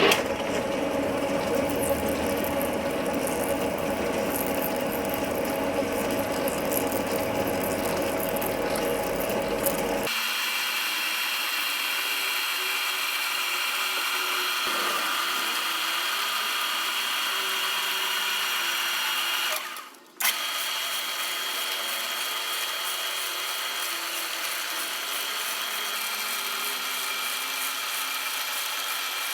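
Metal lathe running with a steady mechanical whine. The sound changes abruptly about ten seconds in to a thinner, higher whine, and it drops out briefly around twenty seconds in.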